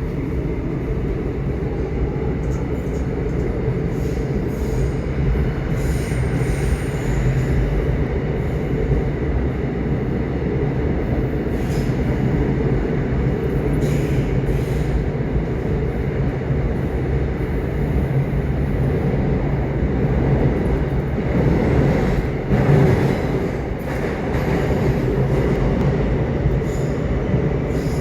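Subway train running on the rails: a steady low rumble with a few clacks, and a faint high wheel squeal now and then.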